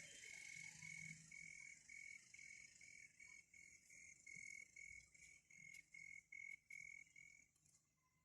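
Faint, regular chirping, about two chirps a second, typical of a cricket or similar insect. It stops shortly before the end.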